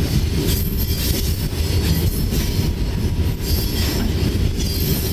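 Mauritanian iron ore train's loaded ore wagons rolling along the track, a loud steady rumble and rattle heard close up from on top of an ore wagon.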